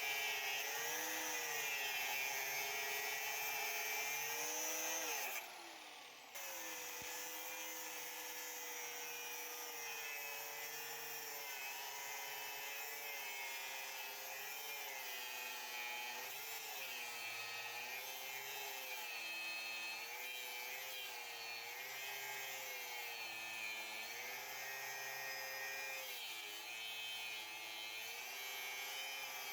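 Handheld electric power tool running on the rusted anvil's metal, its motor pitch dipping and recovering again and again as it is pressed into the work. About five seconds in it is switched off and winds down, then starts up again about a second later.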